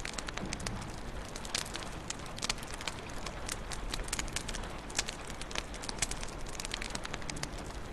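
Wood fire crackling in a fireplace: irregular sharp pops and snaps, several a second, over a steady hiss and low rumble.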